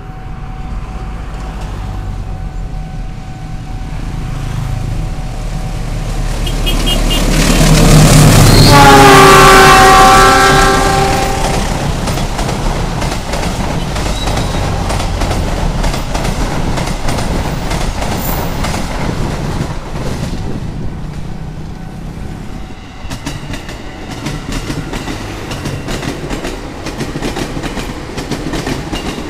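A CC 206 diesel-electric locomotive approaches and sounds its multi-tone horn about a third of the way in, one long blast whose pitch sags slightly as it passes. Its passenger coaches then roll by with a steady rumble and clickety-clack over the rail joints. Near the end, the clicking wheels of an approaching 205 series electric commuter train take over.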